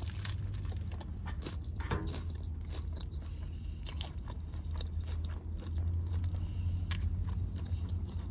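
A person biting into and chewing a shrimp gyro close to the microphone, with irregular clicky mouth sounds. A steady low hum runs underneath.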